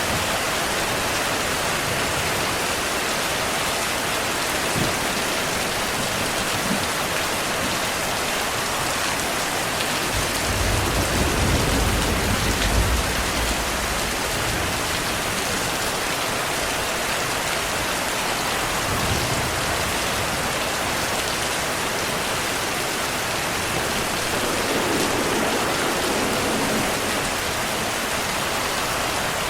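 Steady heavy rainfall hissing evenly. About ten seconds in, a low rumble of thunder swells for a few seconds, with fainter low rumbles later.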